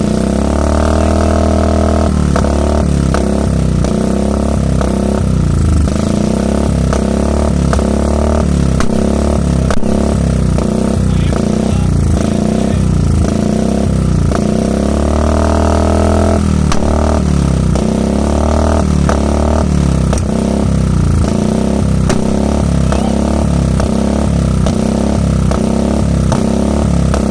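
Motorcycle with a megaphone exhaust, revved twice and let fall back each time. Each rev is followed by a long run of sharp pops (exhaust 'pataka' shots) as the throttle closes, over the engine's steady low running note.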